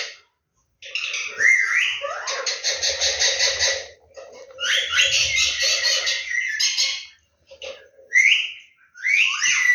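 Indian ringneck parrot vocalizing in a string of rapidly pulsing chattering bursts with rising squeaky notes, broken by short pauses.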